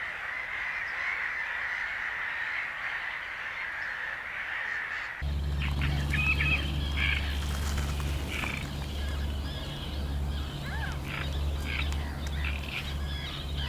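Birds calling. For about five seconds a steady, high, hissy chorus plays, then the sound switches abruptly to many separate chirps and calls over a steady low rumble.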